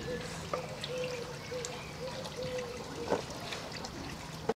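Plastic Dog Tornado food puzzle being worked by a dog: scattered light clicks and rattles of the plastic parts and kibble, with a sharper knock about three seconds in and another just before the sound cuts off. A faint short tone repeats underneath.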